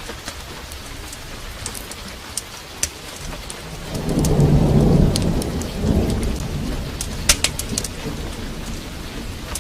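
Steady heavy rain with a roll of thunder that swells about four seconds in, peaks a second later and rumbles off over the next couple of seconds. Scattered sharp crackles and ticks run through it, as from a fireplace fire.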